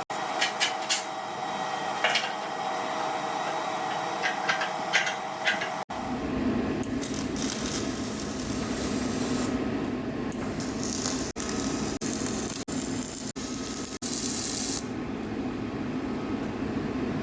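MIG welding on the steel plates of a Caterpillar D8 dozer blade, a steady crackling hiss. It is cut off and picks up again abruptly about six seconds in and several times between eleven and fifteen seconds.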